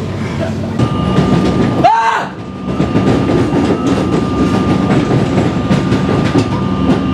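Running noise heard inside a moving electric suburban train carriage: a steady rumble of the wheels on the track with a thin steady whine over it. There is a brief break about two seconds in.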